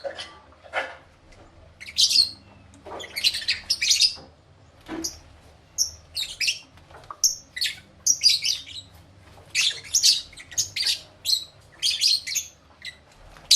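African lovebirds chirping and squawking: many short, sharp, high calls coming in quick clusters with brief pauses between them.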